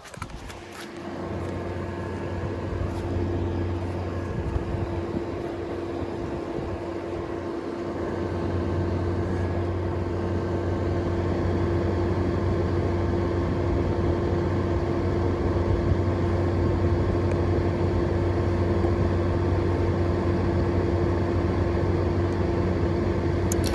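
Frigidaire 6000 BTU window air conditioner running, its GMCC compressor humming steadily along with the fan. The hum comes in about a second in and grows louder around eight seconds in.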